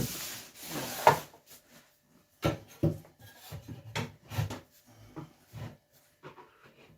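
Scraping and rubbing for about a second, then a run of irregular knocks and clatters as a plinth panel is levered and pulled against its clips with a hooked tool.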